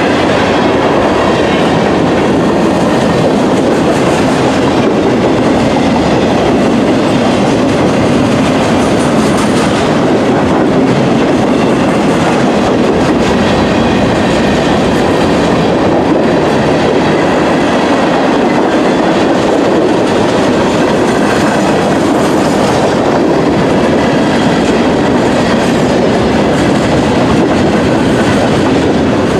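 Freight train rolling past, its cars making a steady, loud rumble on the rails.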